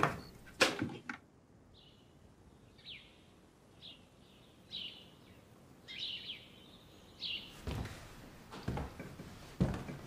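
Birds chirping, a series of short high chirps spaced about a second apart. A brief thump comes about half a second in, and several footsteps toward the end.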